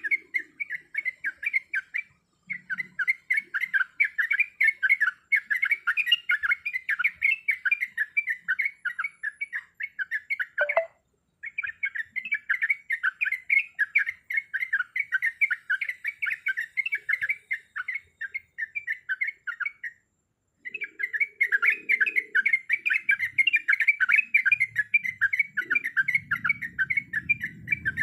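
Yellow-vented bulbul (trucuk) chattering in fast, continuous runs of short notes. The long stretches break off briefly about two seconds in, around eleven seconds and around twenty seconds.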